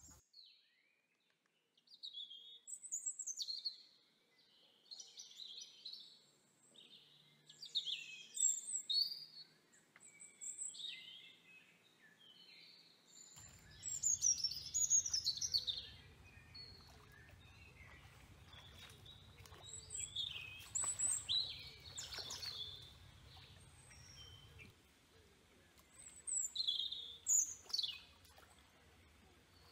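Wild birds chirping and calling: many short, high, sweeping notes in bursts, one after another.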